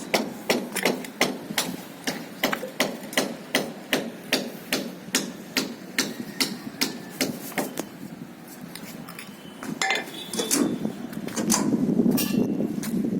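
Repeated sharp knocks at a steady pace of about three a second, stopping about eight seconds in, followed by a louder rough noise near the end.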